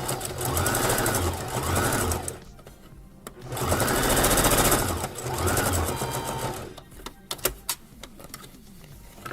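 Sewing machine stitching in four short runs, each speeding up and easing off, with a short pause about a third of the way in: back-and-forth runs typical of a reverse stitch at the start of a seam. A few sharp clicks follow near the end.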